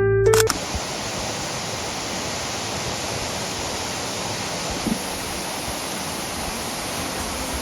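Steady rush of a waterfall, an even hiss of falling water with no change. A music track cuts off about half a second in.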